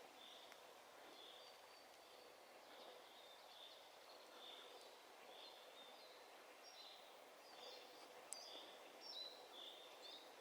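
Faint forest ambience. A songbird repeats the same short high call steadily, a little more than once a second, while other birds add scattered higher chirps and one sharp high note about eight seconds in.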